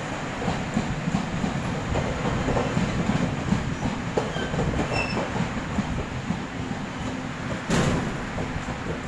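A TRA Puyuma tilting electric train (TEMU2000) running through the station close by without stopping: a steady rumble of wheels on rail with clicks over the rail joints. A single sharp bang comes about eight seconds in.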